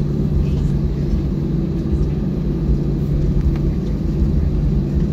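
Airbus A319 cabin noise during taxi: a steady low rumble with a constant hum from the engines turning at idle.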